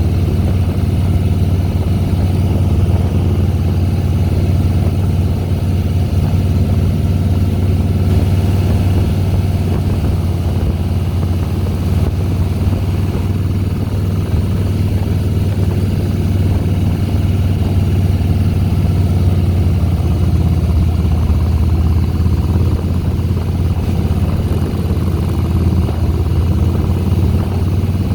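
2010 Harley-Davidson Softail Deluxe's Twin Cam V-twin engine running steadily under way, a low even drone that holds its pitch with no gear changes.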